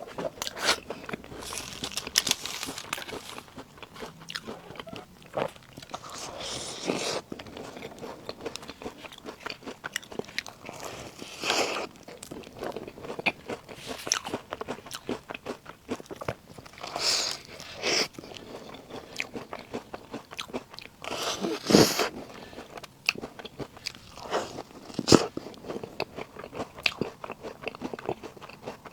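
Close-miked ASMR eating of puff snacks: repeated bites and chewing, with many sharp crackly clicks and short crunchy bursts every few seconds.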